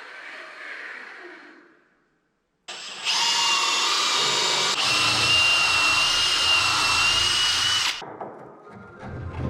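Electric power tool running steadily with a high whine for about five seconds, starting after a brief silence and cutting off suddenly.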